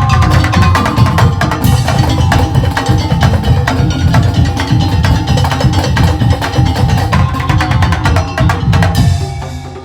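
Madurese tong-tong (ul daul) percussion ensemble playing: rapid wooden slit-drum strikes over heavy bass drums, with pitched melodic tones on top. The music dies down near the end.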